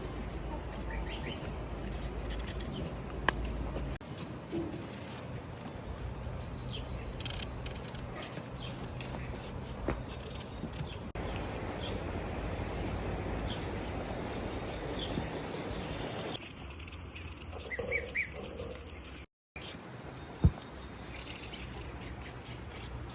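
Outdoor ambience with birds chirping now and then over a steady background hiss, changing abruptly several times and dropping out briefly once, with scattered small knocks.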